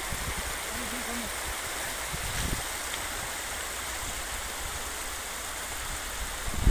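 Floodwater rushing steadily, with a low thump about two and a half seconds in.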